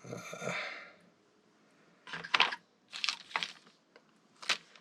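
Motorcycle engine parts and their packaging being handled and sorted. There is a short rustling noise at the start, then three brief crinkling, rustling bursts about a second apart in the second half.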